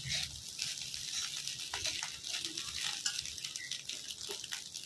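Fish roe frying in a metal kadai: a steady sizzle, with scattered scrapes and clicks of a steel spoon stirring it.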